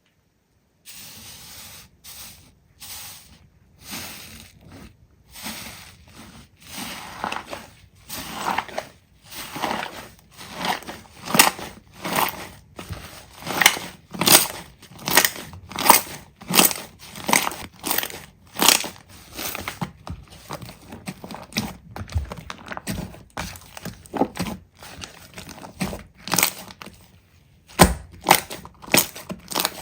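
Slime being pressed and squeezed by hand, making a run of short, sharp crackling squelches about one or two a second, starting about a second in.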